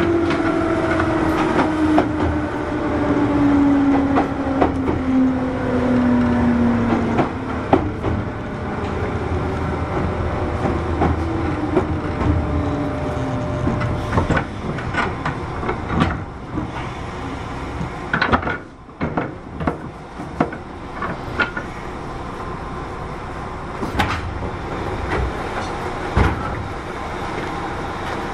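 JR 201 series electric train heard from inside a motor car. The traction motors and thyristor chopper give a tone that falls steadily for about the first seven seconds as the train slows. The wheels then click over rail joints, with the train running on a little more quietly near the end.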